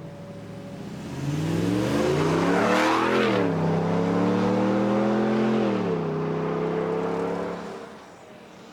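A car accelerates hard: the engine's revs climb quickly for about two seconds, drop sharply at an upshift, then hold steady as it pulls away. The sound fades near the end.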